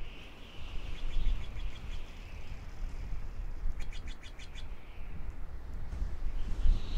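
Birds chirping over a low rumble, with a quick run of about eight short chirps about four seconds in.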